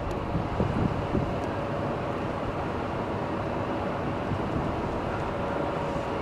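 A rail vehicle running with a steady rumble and a steady whine held at one pitch.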